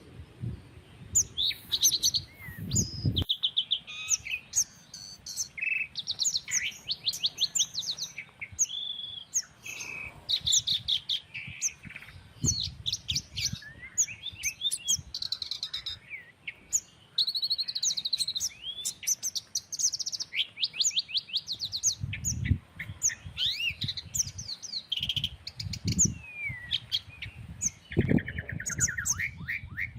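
Several small songbirds chirping and trilling over one another, with quick repeated notes and short rising and falling whistles. A low rumble of wind buffets the microphone for the first few seconds and again through the last third.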